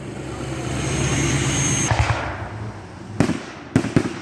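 Aerial fireworks: a swelling hiss with a steady high whistle for about two seconds, cut off by a bang, then three sharp cracks near the end.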